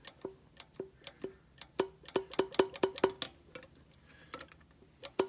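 Sharp ticking, a few ticks a second in uneven runs, with a pause of about a second and a half before the ticking resumes near the end.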